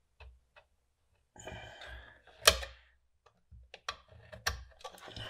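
Cutting into a wire's plastic insulation: a few light clicks and a short scraping stretch, then one sharp snap about halfway through, followed by more small clicks.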